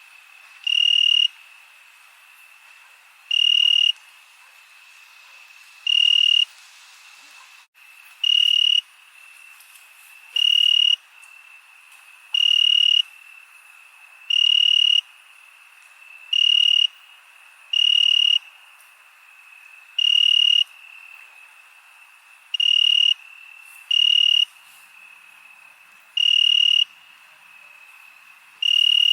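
Crickets chirping at night: loud half-second chirps about every two seconds over a steady high trill.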